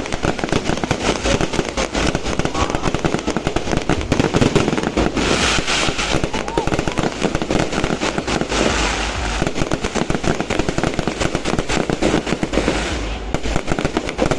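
Fireworks going off in rapid succession, a dense run of bangs and crackles, with two stretches of hissing crackle about five and eight seconds in.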